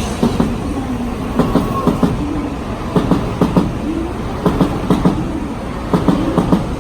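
Shinkansen bullet train moving along the track: a steady low rumble with groups of sharp clacks from the wheels passing over rail joints, coming every second or so.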